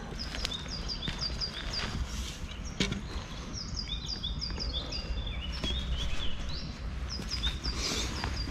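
A songbird singing quick runs of short, high chirps, over a steady low rumble, with a few sharp clicks and knocks.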